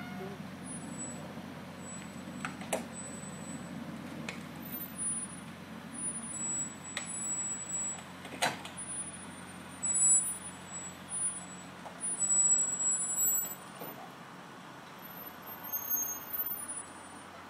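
A vehicle engine running steadily at idle, with scattered clicks and a few louder knocks.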